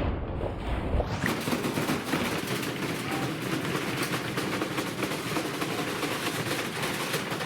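Washing machine running hard with a rapid, continuous rattling and knocking. The sound changes abruptly about a second in.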